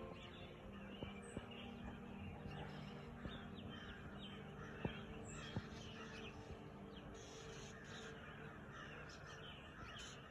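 Dawn chorus: many birds chirping and calling at once in a dense, overlapping tangle of short notes, over a low steady hum, with a few short sharp clicks, the loudest around the middle.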